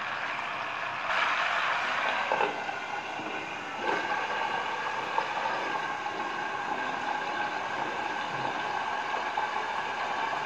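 A whole chicken sizzling steadily in hot oil in a pan. A few knocks come in the first few seconds as a glass lid is set on, and the frying goes on under the lid.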